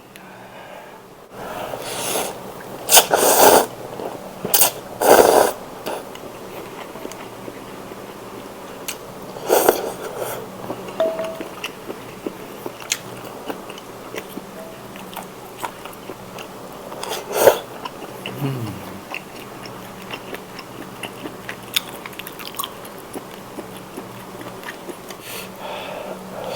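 Close-miked eating of spicy tom yum seafood instant noodle soup: a few loud slurps of noodles and broth, with chewing and small mouth clicks between them.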